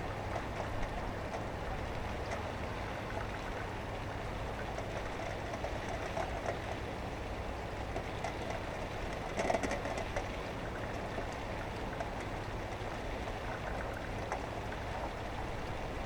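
Steady rain with a continuous low rumble of vehicles on a wet road, heard through an open window. There is a brief louder swell about nine and a half seconds in.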